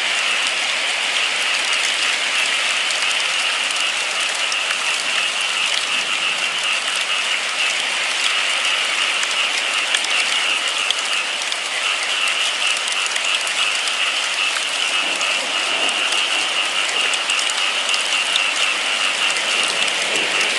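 Steady rainfall, a dense even patter of drops with a bright hiss.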